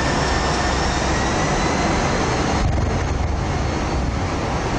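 Jet airliner's engines at takeoff thrust during the takeoff roll, heard from the flight deck: a loud, steady noise with a deep rumble and a faint rising whine.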